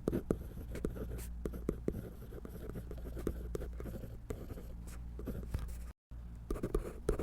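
A drawing tool scratching across paper in quick, irregular strokes. The sound cuts out for an instant about six seconds in, then the strokes resume.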